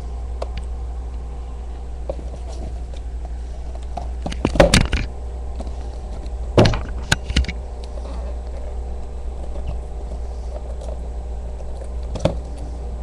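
Handling of a die-cast model airplane's box and packaging: scattered sharp clicks and rustles, loudest about four and a half seconds in and again near six and a half seconds. A steady low hum lies underneath.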